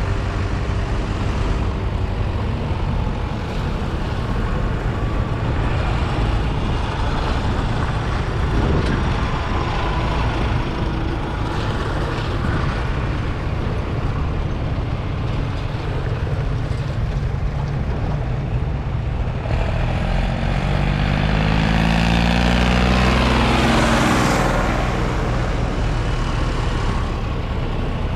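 Vintage tractor diesel engines running steadily on the road. About twenty seconds in, one tractor comes by close, louder, its engine note shifting in pitch as it passes.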